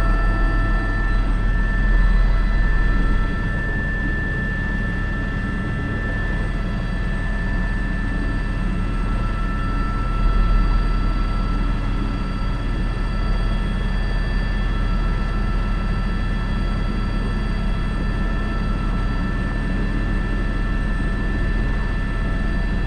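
Airbus H125 helicopter in flight, heard from inside the cockpit: a steady low rotor beat with the even whine of its turboshaft engine and several steady high tones over it.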